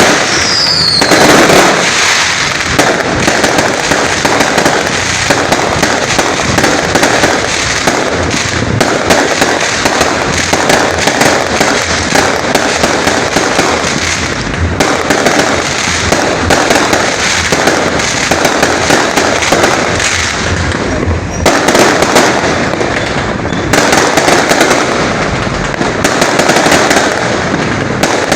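Fountain fireworks spraying sparks with a loud, continuous hiss and dense crackling.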